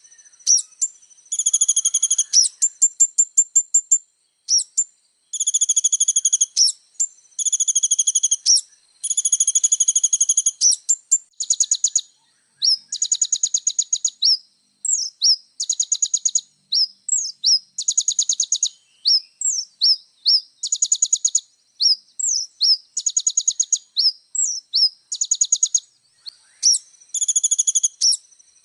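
Kolibri ninja sunbird singing a fast, high-pitched chattering song: bursts of rapid chirps and trills with short pauses between them. Faint steady high buzzing tones run underneath.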